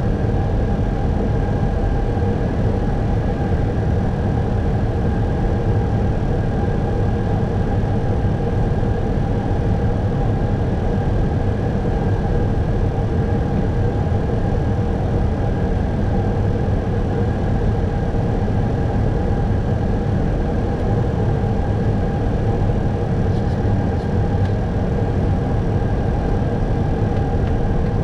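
Steady cockpit noise of an Airbus A321 in flight: an even hum of airflow and engines with a few steady tones over it, unchanging throughout.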